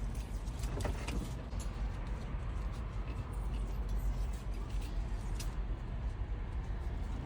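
Steady low rumble with a few faint clicks and knocks over it.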